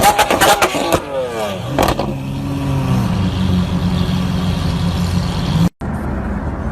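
Car engine with a loud aftermarket exhaust, its revs falling away after a blip of the throttle, with several sharp cracks in the first two seconds, then settling into a steady idle. It cuts off suddenly near the end, and another engine is heard running.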